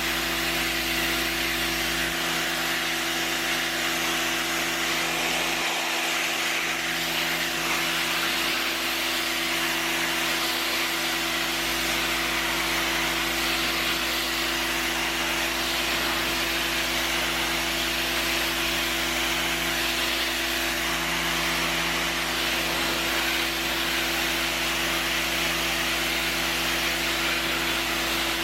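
Stanley electric pressure washer running continuously: a steady electric motor-pump hum under the loud hiss of the high-pressure water jet spraying a porch.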